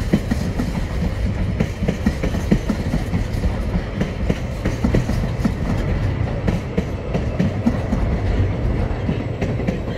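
Freight train's container flat wagons rolling past close by: a steady low rumble of steel wheels on rail with frequent clicks and knocks from the wheels.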